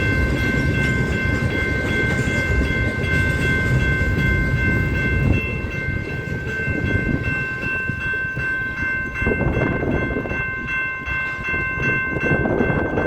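Loaded freight train cars of a coal train rolling past on the rails: a steady rumble with wheel clatter, easing a little about five seconds in, under a steady high-pitched ringing tone.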